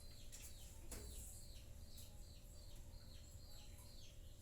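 Faint bird chirping in the background: a steady series of short, high, falling chirps, about two or three a second, over quiet room tone.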